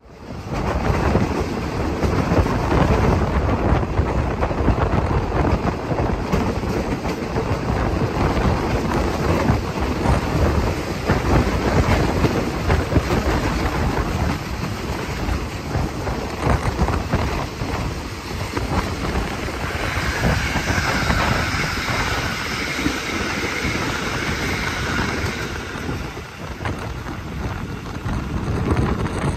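Passenger train carriage running at speed, heard from its window: a steady rumble of wheels on rail with clattering over the track and wind rushing past. A higher hiss joins in from about twenty to twenty-six seconds.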